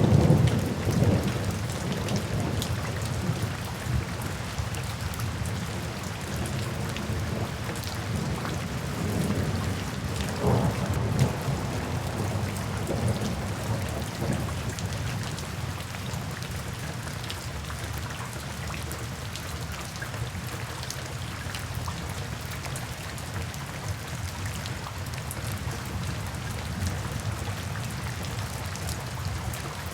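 Steady rain falling, with low thunder rumbles: one loud at the start that fades over the first couple of seconds and another about ten seconds in, after which only the rain goes on.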